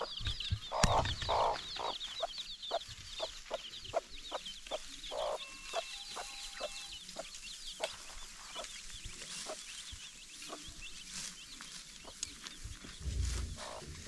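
Chickens clucking in a steady run of short calls, about two a second. Small birds chirp high over them in the first few seconds.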